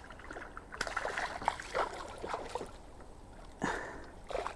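Small irregular water splashes and trickles beside a kayak as a hooked largemouth bass fights on the line, with a louder splash a little before the end.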